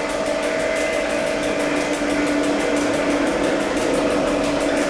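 Electric railcar of the Mürren–Grütschalp mountain railway running steadily downhill, heard from the driver's cab: a constant hum from the motors and running gear over the rumble of wheels on rail.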